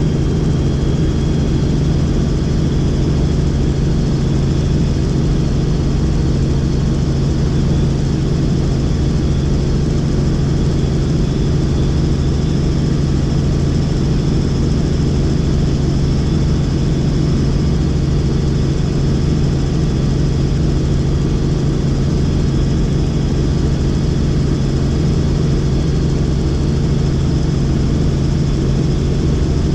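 Helicopter in steady cruise flight: a constant low drone from the rotor and engine, with a thin steady high whine above it.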